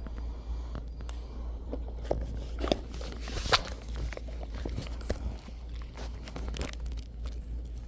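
Footsteps and light scuffing with scattered small clicks, under a steady low rumble; one sharper click comes about three and a half seconds in.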